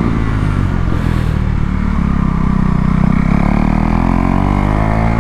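KTM Duke 390's single-cylinder engine pulling under acceleration: steady at first, then the revs climb from about two seconds in and drop off sharply near the end, as at a gear change.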